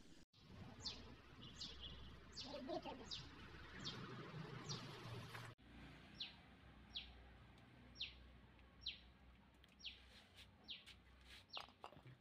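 A small bird calling over and over: short, high chirps, each dropping quickly in pitch. They come about two a second at first, then about one a second after a brief break.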